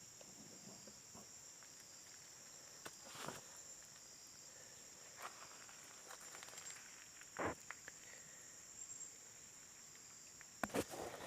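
Steady high-pitched chorus of forest insects, with a few scattered faint clicks and cracks.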